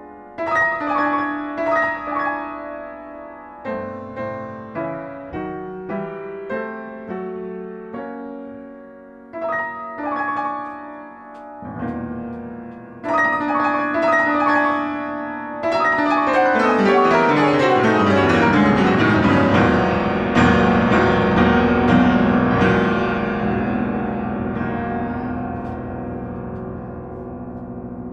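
Piano played solo: separate chords and notes struck one after another for about twelve seconds, then, after a brief thinning, a dense rush of fast notes with descending runs builds from about sixteen seconds in and stays full and loud.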